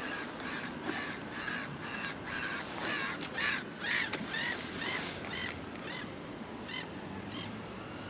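A bird calling over and over, a harsh call about twice a second that grows louder and then fades away near the end.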